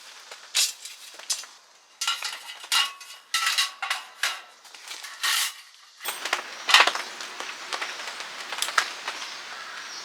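Clinking and clattering of dishes and utensils being handled: a run of irregular short knocks and scrapes, with abrupt changes about two and six seconds in.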